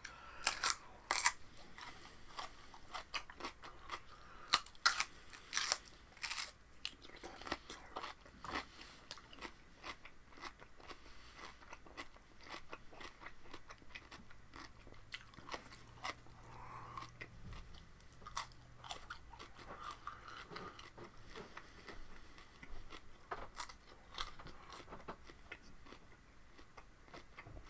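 A person biting and chewing raw vegetables close to the microphone: loud crisp crunches in the first several seconds, then steadier, quieter chewing.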